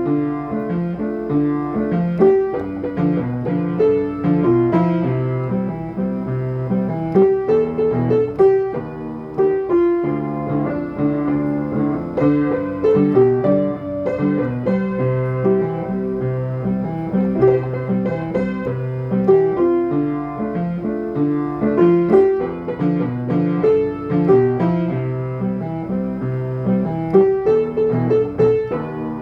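Piano playing a festa junina tune, a melody over a steady, regular accompaniment.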